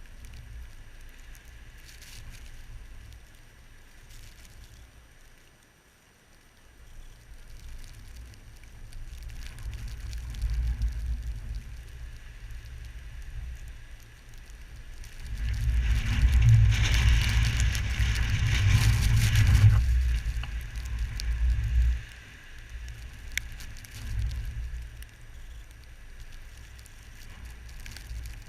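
Blizzard wind gusting and buffeting the microphone as a low rumble that swells and eases. About sixteen seconds in, a stronger rushing hiss rises for some four seconds, then falls away.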